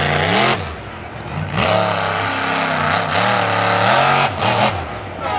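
Monster truck engine revving hard. It rises and drops back in the first half second, then climbs again, holds high with the pitch wavering under the throttle, and falls off shortly before the end.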